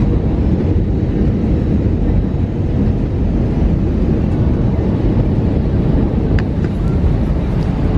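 Steady, loud low rumble of an airliner heard from inside the cabin as the plane comes in to land.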